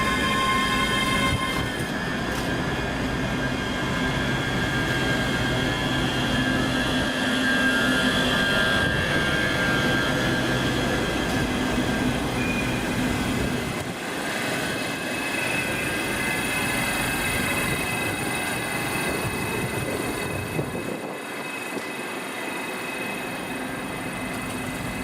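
A passenger train moving through the station, with steady high squealing tones from the wheels over a low rumble that eases off in the second half.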